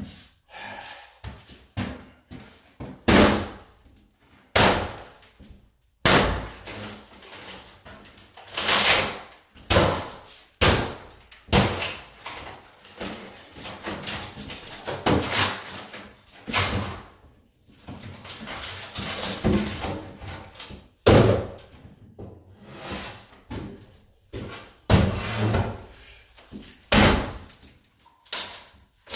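A cabinet being broken apart by hand: irregular loud bangs and knocks, some single and some in quick runs, with scraping and cracking between them.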